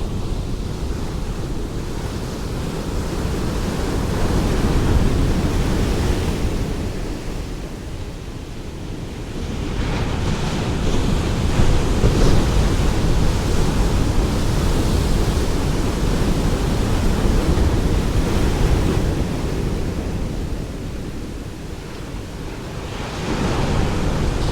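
Ocean waves breaking and washing on a shore: a continuous deep rush that swells and ebbs, with waves cresting about 5 s in, a longer surge from about 10 to 19 s, and another rising near the end.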